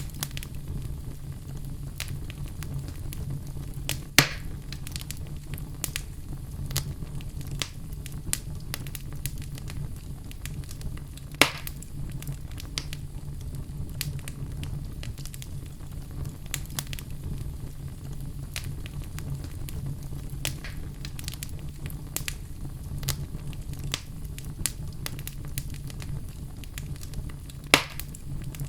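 Wood fire in a fireplace crackling steadily over a low rumble of flame, with frequent small clicks and three loud, sharp pops of burning logs: one about four seconds in, one near the middle and one near the end.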